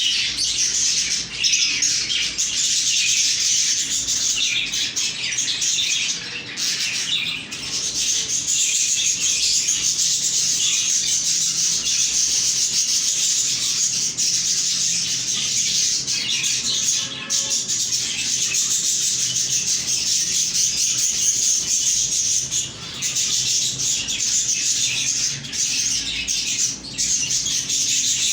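Budgies chattering and warbling continuously, a dense high twittering with only a few brief pauses.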